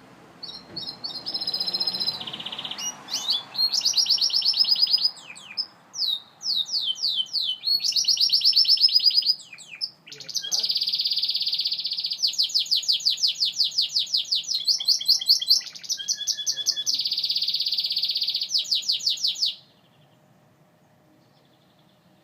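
Gloster canary singing a long song of rapid trills and rolling runs of repeated notes, stopping a few seconds before the end.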